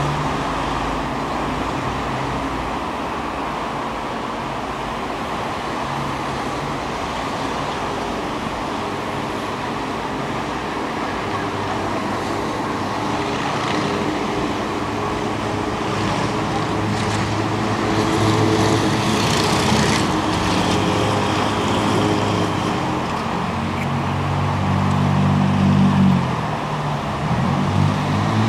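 Motorboat engine running under a steady rush of wind and water; the engine grows louder in the second half, loudest shortly before the end.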